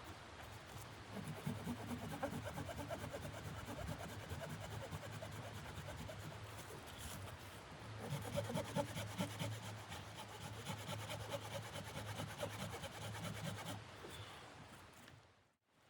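Rhythmic scraping, a fast run of short strokes with a steady low hum beneath, breaking off sharply just before the end.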